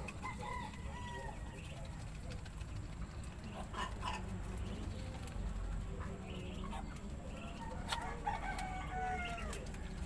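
Chickens clucking and a rooster crowing, with a long drawn-out crow near the end and a couple of sharp clicks.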